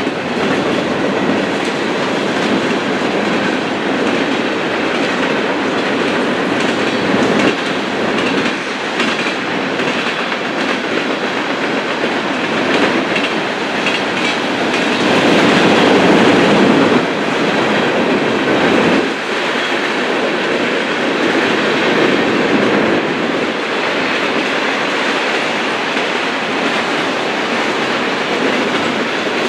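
Freight cars of a Union Pacific mixed freight train rolling past: the steady rumble and rattle of steel wheels on rail, swelling louder for a couple of seconds just past the middle.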